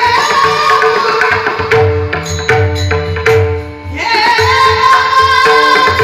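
Indian devotional music: a man sings long, high, held notes over a steady drone, with pakhawaj drum strokes underneath. The voice breaks off for about two seconds in the middle while the drum plays on its own, then comes back in with a rising held note.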